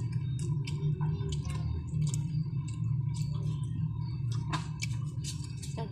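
People chewing and smacking their lips while eating pork adobo, rice and vegetable fritters by hand: a run of short, irregular wet clicks over a steady low hum.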